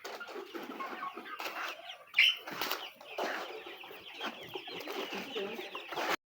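A flock of nine-week-old layer pullets clucking and chirping together, with one loud rising squawk about two seconds in; the sound cuts off suddenly near the end.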